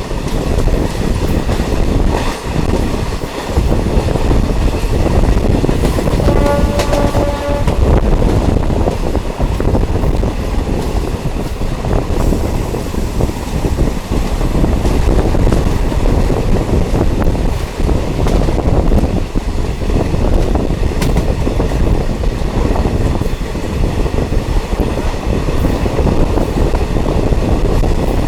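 Diesel multiple unit train running, a loud steady noise throughout; its horn sounds once about six seconds in, for just over a second.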